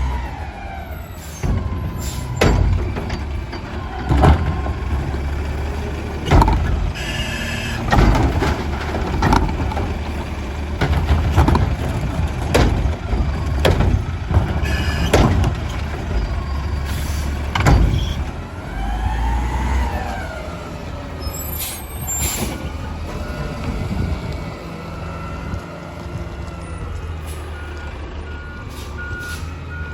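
Garbage truck with a Curotto-Can loader on a recycling pickup: the diesel engine runs steadily while a whine rises and falls as the loader cycles. Repeated sharp clanks and crashes of carts and recyclables being dumped are heard, with a short row of beeps near the end.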